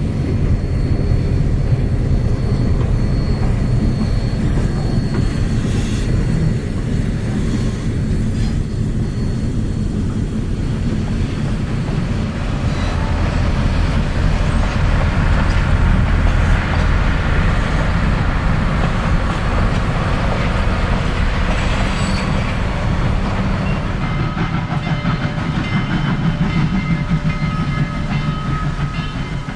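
A passenger train hauled out by a diesel switcher rolls by, a steady rumble of engine and wheels on the rails.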